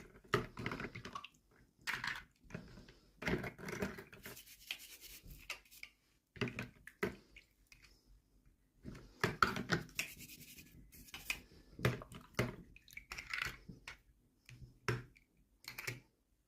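Hands handling toy packaging and small plastic doll pieces: irregular rustles, scrapes and clicks, with a few short pauses.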